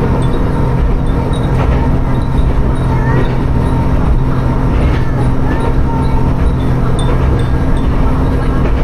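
Inside a diesel railcar running between stations: the engine hums steadily under a constant rumble of wheels on track.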